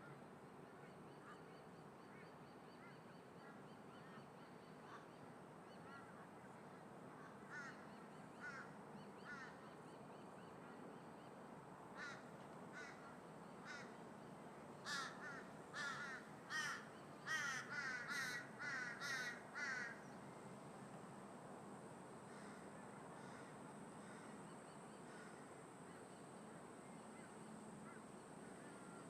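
Crows cawing: a few scattered caws, then a quick run of repeated caws in the middle that is the loudest part, over a steady low rush of background noise.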